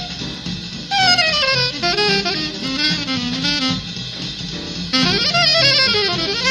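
Bebop alto saxophone solo over a jazz rhythm section: quick runs of notes, with a long falling line about a second in and a fast rising run near the end.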